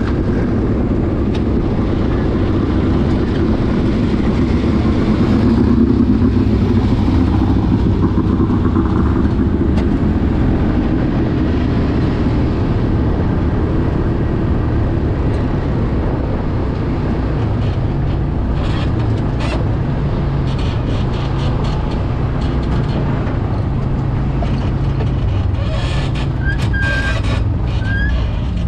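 Motor vehicle running steadily, with engine hum and road noise. A few short, high squeaks come near the end.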